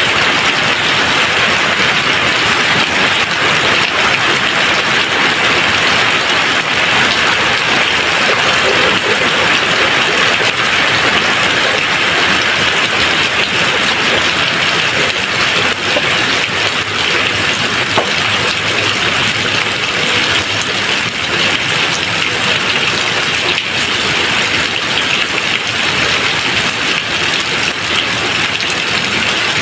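Steady rain falling: a dense, even hiss of raindrops with a few faint drop clicks.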